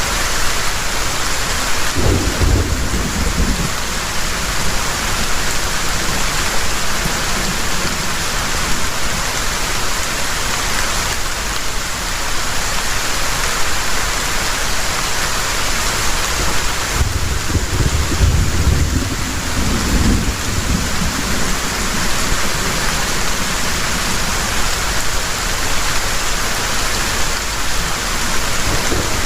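Heavy rain falling steadily, with two low rolls of thunder: a short one about two seconds in and a longer one a little past the middle.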